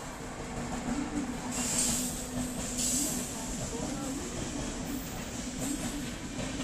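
An Indian Railways electric locomotive and its passenger coaches roll past: a steady rumble with a wavering hum, and two short bursts of hiss about two and three seconds in.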